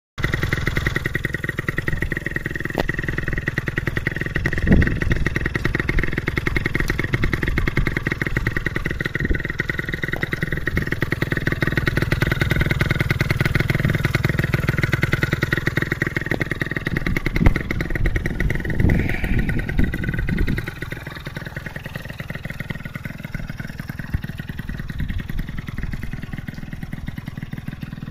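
50cc two-stroke scooter engine with a stainless aftermarket muffler, idling steadily with a fast, even firing pulse. There are a few short blips along the way, and it turns noticeably quieter about three-quarters of the way through.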